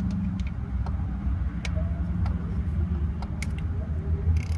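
Steady low engine rumble, with scattered light clicks and taps over it.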